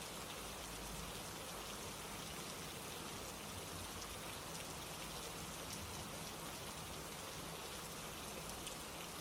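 Steady rain, fine drops pattering on a surface.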